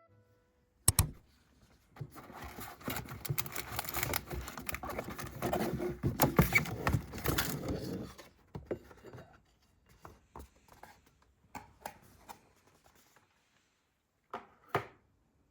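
Objects being handled: a sharp click about a second in, then about six seconds of dense scratching and rustling, then scattered light clicks and taps, ending in two quick knocks.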